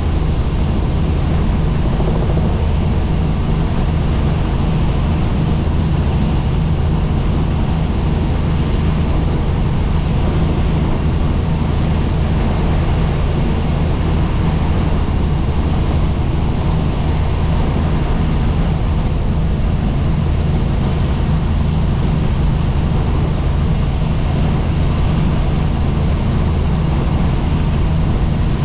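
Helicopter in flight: steady rotor and engine noise with a deep, even low drone that does not change.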